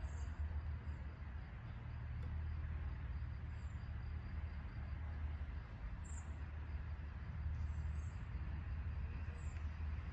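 Natural outdoor ambience: short, high bird chirps now and then over a steady low rumble and a faint, steady high insect-like hum.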